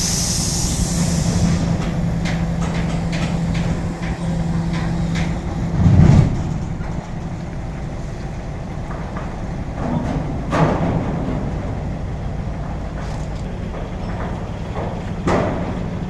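Heavy container truck's diesel engine running steadily, with a short burst of air hiss at the start. Metal clanks and knocks follow, with one heavy thump in the middle and two more sharp knocks later on.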